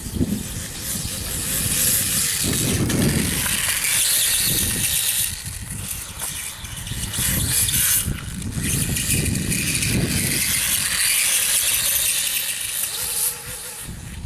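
Electric RC dirt bike running, a high-pitched whine from its motor and drivetrain that rises and falls with the throttle, dipping briefly twice and dropping away near the end.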